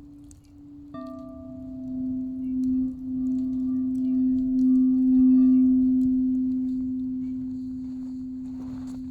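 Quartz crystal singing bowl struck about a second in, its pure steady tone swelling and then slowly dying away, as another slightly higher bowl tone fades out.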